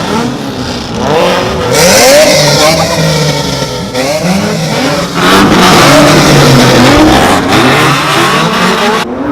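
Car engine revving hard, its pitch climbing and falling again and again, loudest from about two seconds in.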